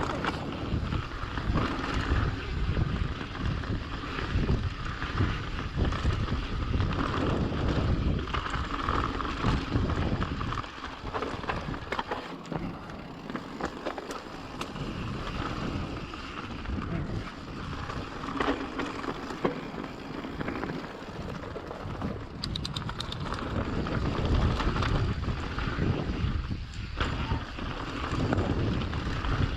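Mountain bike riding down a trail, heard through a GoPro's microphone: wind buffeting the mic, with tyre noise and the bike rattling over bumps. The wind noise eases for a few seconds around the middle.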